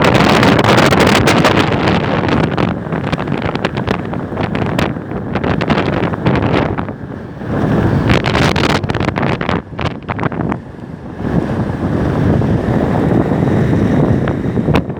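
Strong gusting wind buffeting the microphone, a loud rumbling roar with crackles, rising and falling with the gusts, over rough surf.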